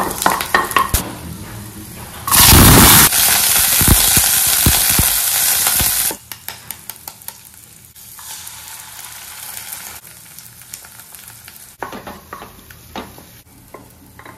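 Sweet corn going into hot garlic oil in a nonstick pan. A loud sizzle starts suddenly about two seconds in and lasts some four seconds, then settles to a quieter frying hiss. A spatula clicks and scrapes against the pan throughout, more sharply near the end.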